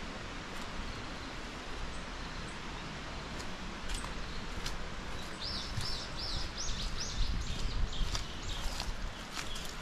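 Steady woodland hiss with a few light ticks. From about halfway through, a small songbird gives a quick run of about a dozen short high notes, about three a second.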